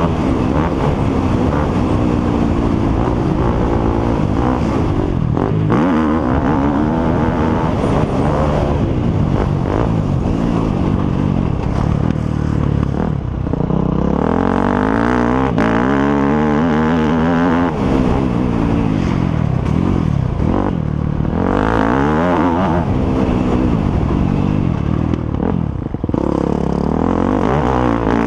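Off-road motocross motorcycle engines running hard, revving up and down over and over as riders accelerate and shift, with the pitch of more than one bike overlapping at times.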